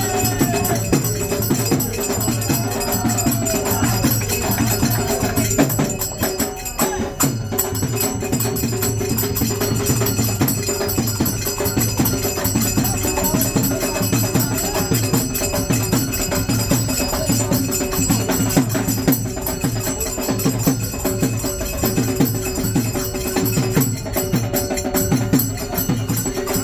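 Sankirtan, Hindu devotional group music, with a steady jingling hand-percussion rhythm over sustained tones.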